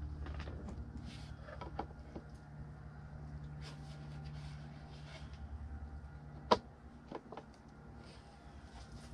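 Light clicks and taps of plastic heater-box parts and blend doors being handled, with one sharp snap about two-thirds of the way through, over a steady low hum.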